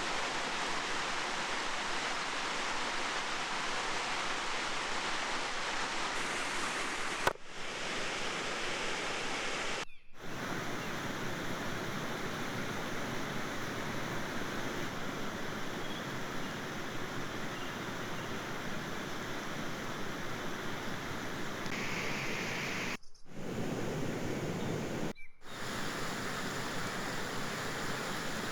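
Steady rushing outdoor background noise with no distinct events, dropping out briefly four times.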